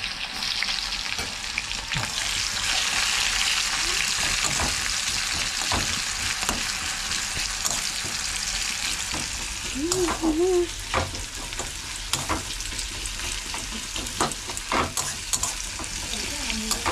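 Chopped chicken sizzling in hot oil in a kadai, with a metal spatula stirring and knocking and scraping against the pan, the knocks coming more often from about four seconds in.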